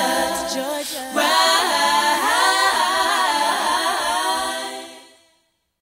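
Layered sung vocal harmonies with little or no backing, pausing briefly about a second in, then fading out to silence about five seconds in.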